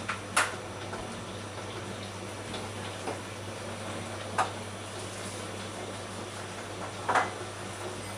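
Water dripping from a tap: single drops land at irregular intervals, the three loudest a few seconds apart, with a couple of fainter drips between them.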